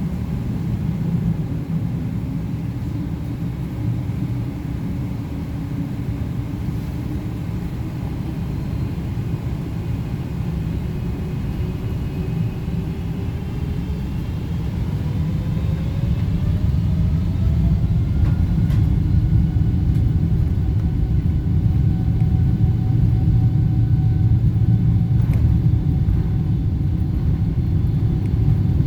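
Boeing 777-300ER's GE90 jet engines spooling up to takeoff thrust, heard inside the cabin: a whine rising in pitch over several seconds, then holding steady as the low rumble of the takeoff roll grows louder.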